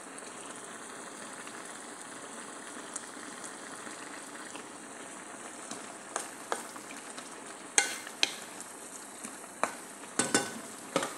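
Stir-fried vegetables frying in sauce in a pan, a steady sizzling hiss. From about six seconds in, a wooden spatula stirs them, adding a run of scrapes and knocks against the pan.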